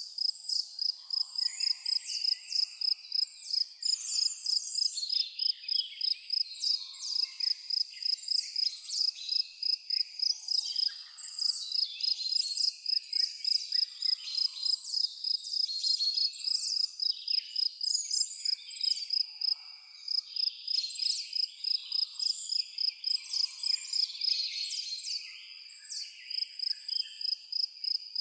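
An insect chirping a steady high note in rapid, even pulses, with many birds singing and calling over it in short chirps and whistles.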